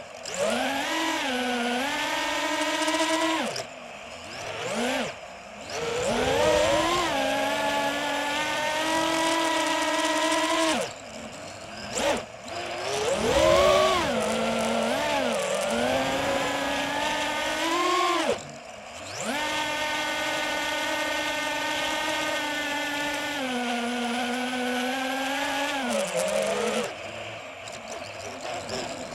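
DJI FPV drone's motors and propellers whining, the pitch rising and falling with the throttle. It drops away several times for a second or so as the throttle is cut, then winds back up.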